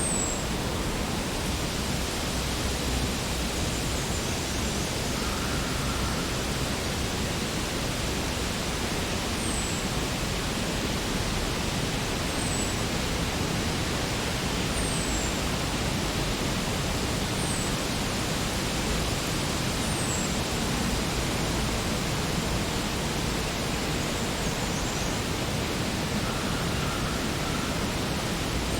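Spring forest ambience: a steady, even hiss of background noise, with a bird's short, very high, falling chirps scattered through it every few seconds.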